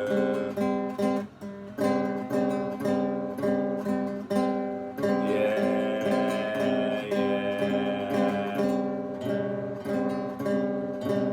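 Acoustic guitar strummed in a steady, even rhythm, playing a blues accompaniment.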